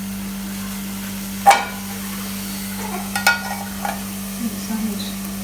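A few sharp clinks of metal cookware, one about a second and a half in and two around three seconds in, over a steady low hum.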